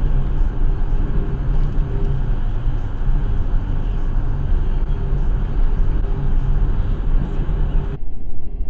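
Car driving, with steady engine hum and road noise heard from inside the cabin through a dashboard camera's microphone. Near the end the sound cuts abruptly to a duller, more muffled version of the same driving noise.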